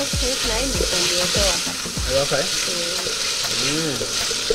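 Beef and potatoes sizzling as they fry in an aluminium pot, with a wooden spoon stirring them and knocking and scraping against the pot.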